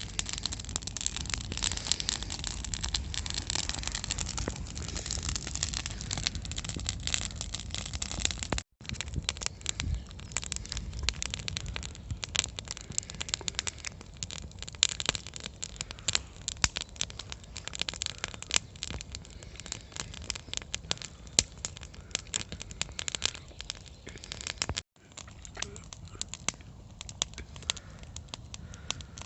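Campfire of burning wood crackling and popping in a dense, irregular stream of snaps. The sound drops out for an instant twice.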